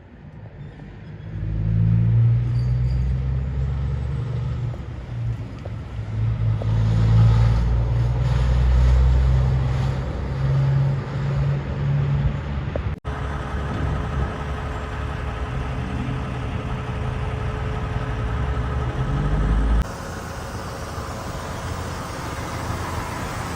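Heavy diesel lorries driving past with a deep engine rumble, loudest in the first half. The sound breaks off abruptly about 13 seconds in and changes again near 20 seconds, as at cuts between separate clips.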